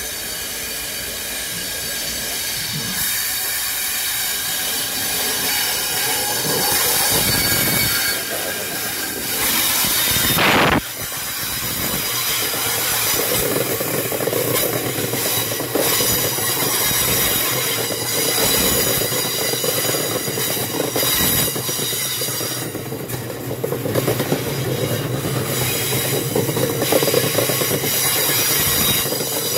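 DB Cargo Class 66 diesel locomotive 66165, with its two-stroke EMD V12 engine, approaching and passing, loudest about ten seconds in. It is followed by a long rake of MMA box wagons rolling steadily past with a continuous rumble and clatter of wheels on the rails.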